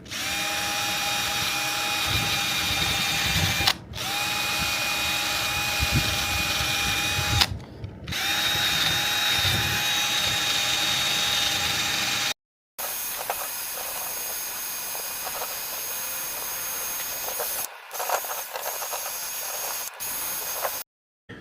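Electric drill with a sanding attachment running against a steel tow ball, grinding off the paint, in spells of a few seconds with short breaks. The motor gives a steady whine, which runs higher and a little quieter in the second half.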